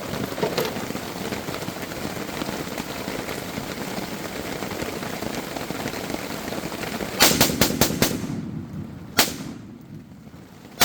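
Steady rain falling, then a fast string of about five gunshots about seven seconds in, a single shot a second later, and another near the end.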